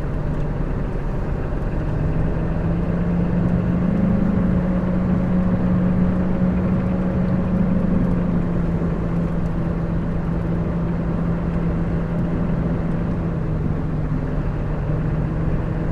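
Lorry's diesel engine running steadily, heard from inside the cab, under a haze of road and cab noise. The engine tone lifts slightly about two seconds in, then holds steady.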